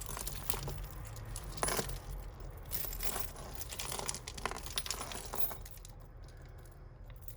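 Costume jewellery, beads and metal pieces, clinking and rattling as it is handled and sorted: a string of small irregular clicks that thins out near the end.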